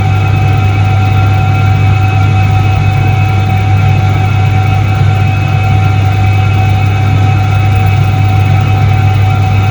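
Soviet Iset-3 washing machine from 1978 running, its motor giving a loud, steady hum with a thin high tone over it, unchanging throughout.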